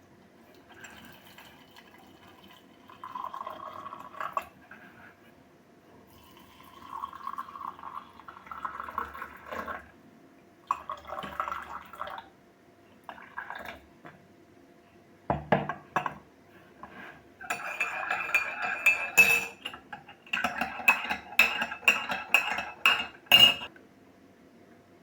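Kitchen crockery and cutlery clinking and clattering. A few short stretches of pouring or running liquid come first, and a busy run of clattering follows in the second half.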